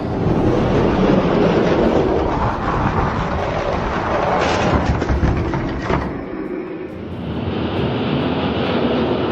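Die-cast Hot Wheels monster trucks rolling down a plastic drag-race track: a loud continuous rumbling clatter that changes character about six seconds in.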